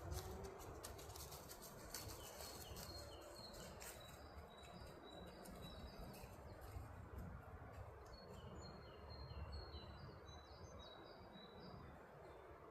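Songbird singing faintly: two bouts of a quick repeated series of short high chirping notes, the first near the start and the second about two-thirds of the way through, over a low steady background rumble.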